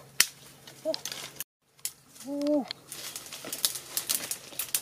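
A bird's short arched cooing calls, with a longer call about two seconds in, over sharp cracks and crackles of dry sticks and leaves being handled. The sound drops out briefly about a second and a half in.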